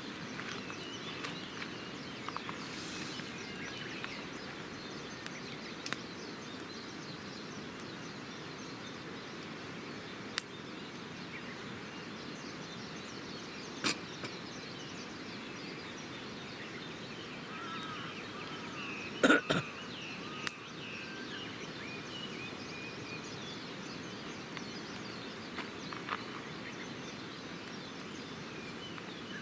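Wood campfire burning with a steady hiss and occasional sharp pops, the loudest a quick double crack a little after the middle. Faint bird chirps come and go in the background.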